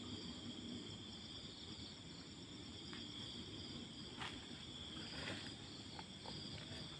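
Night insects, crickets, chirring steadily in a high continuous chorus, with a few faint clicks between about three and six seconds in.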